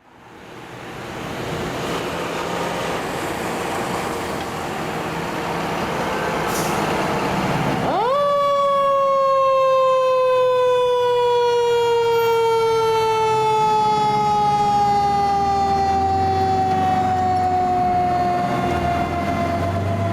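Fire truck's mechanical siren winding up sharply about eight seconds in, then slowly coasting down in pitch, over the rumble of the truck's engine and road noise.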